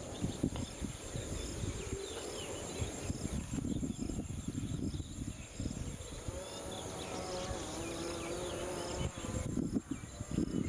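Insects calling in the open: a steady high-pitched drone, with a short chirp repeating a little under once a second. Under it runs an uneven low rumbling noise.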